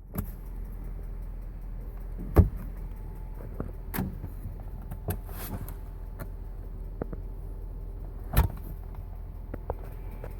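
BMW-built 4.4-litre M62TUB44 V8 of a 2003 Range Rover running with a ticking noise, which the owner links to the hydraulic tappets. Several sharp knocks stand out over the engine, the loudest about two and a half and eight and a half seconds in.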